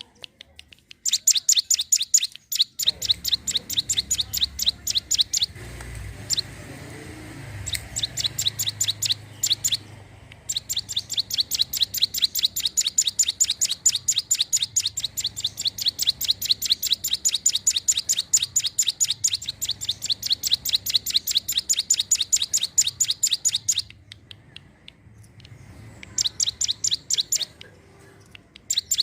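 A ciblek gunung (mountain prinia) singing a rapid run of high, sharp, evenly repeated notes. The song comes in short runs of a second or two and one long unbroken run of about thirteen seconds. A low rumble sits under the song for the first third.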